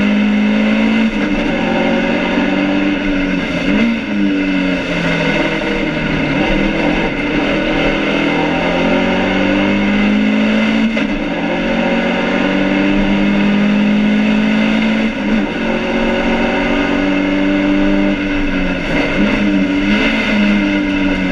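BMW 2002 racing car's four-cylinder engine heard from inside the stripped cabin at racing speed, its note repeatedly climbing as it revs out and dropping back at gear changes and braking.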